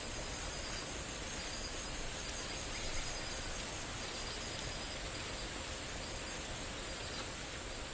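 Forest ambience: insects keeping up a steady high-pitched drone over a soft, even background hiss.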